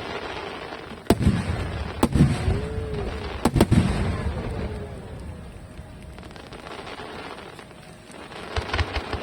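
Aerial fireworks shells bursting: several sharp bangs, each followed by a low rumbling boom, then a burst of dense crackling near the end.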